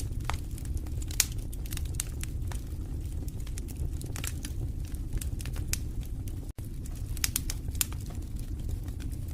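Wood fire burning in a fireplace, crackling with irregular sharp pops over a steady low rumble of flame. The sound cuts out for an instant about two-thirds of the way through.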